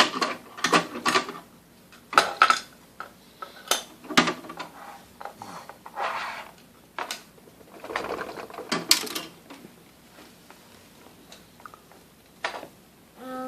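Irregular clicks and clattering of small hard objects being handled, with quiet gaps between.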